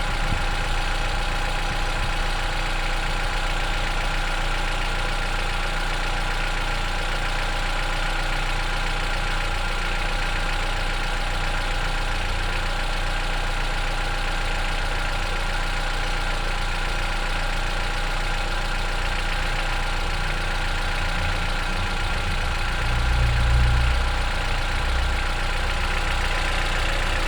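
Chevrolet Onix 1.4 four-cylinder engine idling steadily once warmed up, with the light tapping from the top of the engine that it makes on cold starts now eased; the owner wonders whether it is a tappet (hydraulic lifter), having doubted the canister purge valve. A brief low rumble about 23 seconds in.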